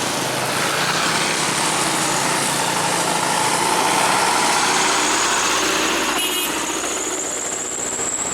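A motor vehicle engine running, its pitch rising over the first few seconds, with a brief clatter about six seconds in and a high thin whine near the end.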